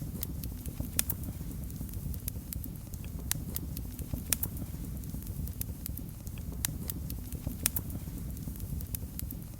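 Fire crackling in a fireplace: irregular sharp pops and snaps, several of them louder, over a steady low rumble of the flames.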